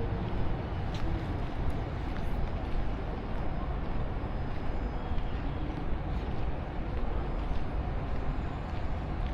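Steady, unbroken low rumble of vehicle noise, with a few faint ticks and no distinct events.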